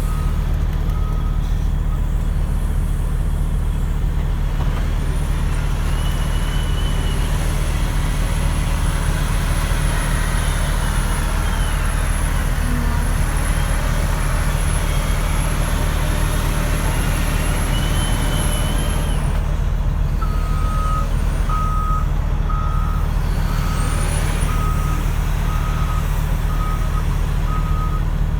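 Heavy diesel earthmoving machinery running steadily, a Cat 966M wheel loader and Cat 769D haul truck at work. A reversing alarm beeps about once a second near the start and again through the last third, and a thin high whine holds through the middle.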